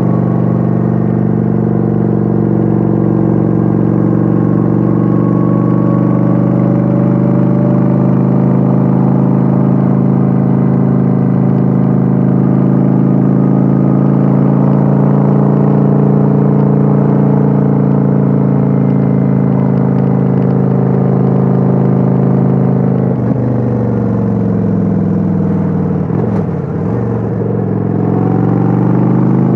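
Kawasaki Vulcan 900's V-twin engine running at a steady cruise, heard from on board the motorcycle. About 23 seconds in its pitch drops, sinks lowest a few seconds later, then climbs again near the end as the bike picks up speed.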